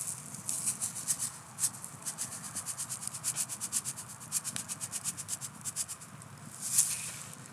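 Quick rhythmic scraping or rubbing strokes, about four to five a second, then one longer, louder scrape near the end.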